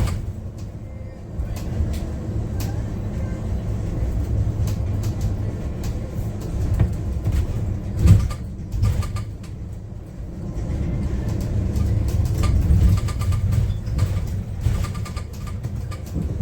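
Inside a Yutong U12 battery-electric city bus under way: a steady low rumble of road and running gear that swells and eases, with frequent short clicks and rattles from the cabin.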